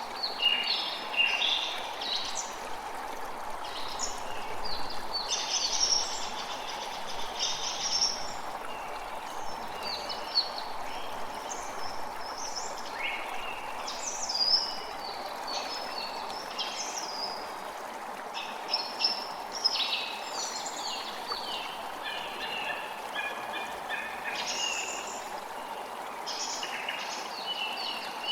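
A creek running steadily under a busy chorus of songbirds, with chirps and short song phrases overlapping almost without pause.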